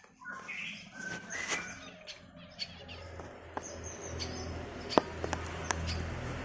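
Birds chirping, a few short high calls in the first two seconds. After that a low rumble builds, with a few sharp clicks.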